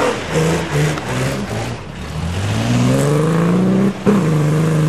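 A Ford 2.8 V6 engine in a BMW 315, revving hard as the car is driven on snow. There are short blips near the start, then the revs climb over about two seconds, break briefly about four seconds in, and hold high and steady.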